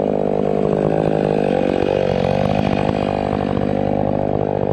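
Ported Stihl 500i fuel-injected two-stroke chainsaw running at full throttle, bucking a grand fir log. Its pitch dips and comes back up about two seconds in.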